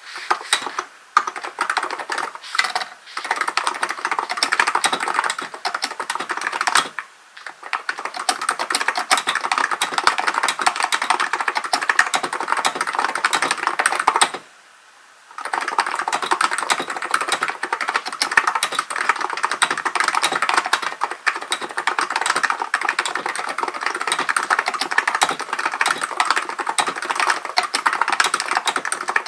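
Fast, continuous typing on a Hansung GK898B electro-capacitive (contactless) keyboard: a dense run of key clicks, with short pauses about 7 seconds in and a break of about a second midway.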